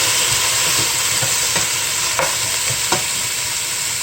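Sautéed onions sizzling in oil in a cooking pot as they are stirred, with a steady hiss and a few light knocks of the utensil against the pot.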